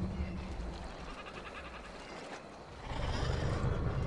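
Dinosaur creature-call sound effects: a rasping, rapidly pulsed call about a second in, then a louder, deep low call starting near the three-second mark.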